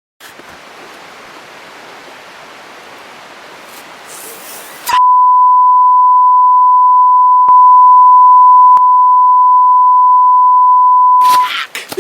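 Faint steady hiss, then a loud electronic beep tone about five seconds in, held on one unchanging pitch for about six seconds before it cuts off.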